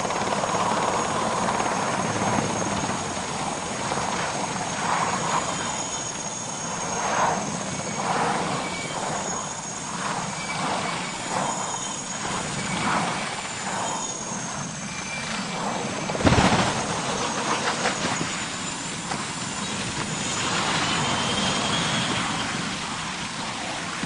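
Aircraft noise running steadily with a wavering high whine, broken by a sudden loud bang about sixteen seconds in.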